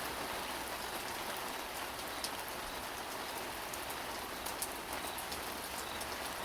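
Rain falling steadily: an even hiss with many sharp ticks of drops striking, a couple of them louder about two seconds in and again past the middle.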